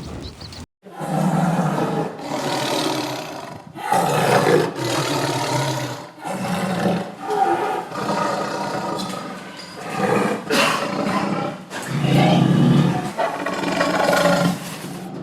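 Big cat roaring: a long run of repeated roars, each about a second long with short breaks between, starting just under a second in after a sudden cut.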